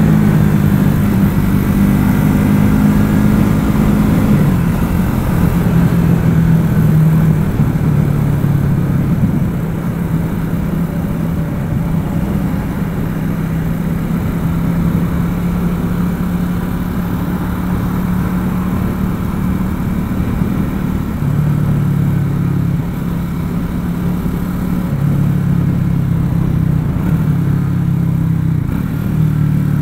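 Triumph Speed 400's single-cylinder engine running on the move at a steady cruise, with wind and road rush. The engine note falls over the first few seconds, then holds steady.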